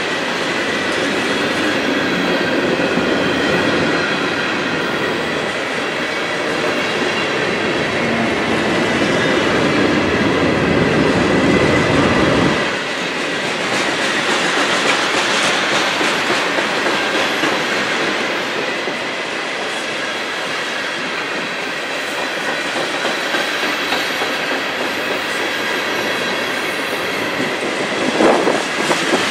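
CSX freight train rolling past, its wheels clacking over the rail joints, with a faint high wheel squeal. A deep low rumble under it cuts off sharply about halfway through.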